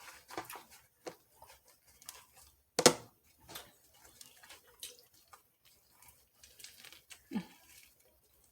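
Close-up eating and food-handling sounds as a Subway sub is eaten: scattered small smacks, crinkles and clicks, with one sharp knock about three seconds in and a short low sound near the end.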